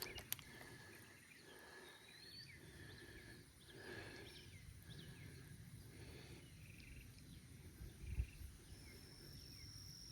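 Near silence: faint outdoor ambience with a few scattered faint bird chirps.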